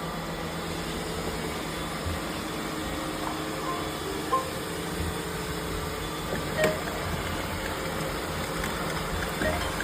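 Several robot vacuum cleaners running at once: a steady hum of motors and brushes, with occasional short knocks, the sharpest a little past halfway.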